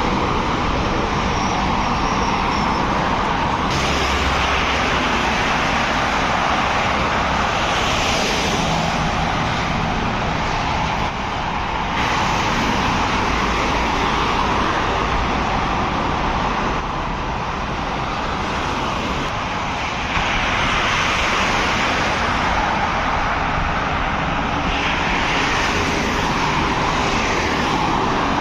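Road traffic noise: a steady rush of vehicle engines and tyres as cars and trucks drive by, with abrupt shifts in the sound several times.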